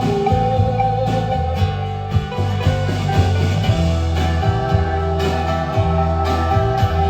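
Instrumental break in a rock song: guitar over a moving bass line and a steady beat, with no singing.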